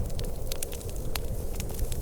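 Wood fire crackling in a fireplace, with sharp irregular pops over a steady low rumble.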